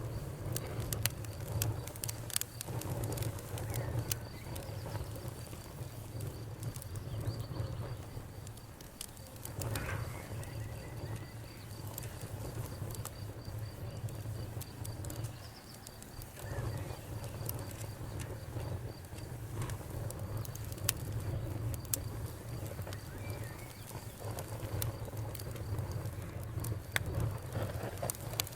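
Campfire crackling, with irregular sharp pops and snaps over a low steady rumble. A steady high insect trill runs alongside and fades out about two-thirds of the way through.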